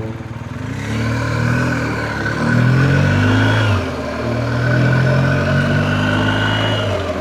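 BMW R1250GS boxer-twin motorcycle engine accelerating, its pitch rising and then dropping at an upshift twice: about a second in to nearly four seconds, and again to about seven seconds.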